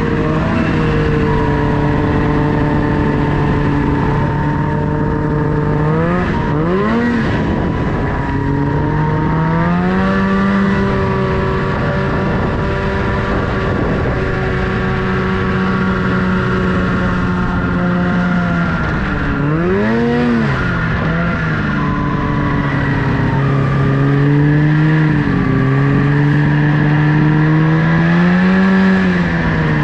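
Snowmobile engine running under way, steady for stretches, with its pitch rising and falling several times as the throttle is worked, most sharply about a quarter of the way in and again around two-thirds of the way through.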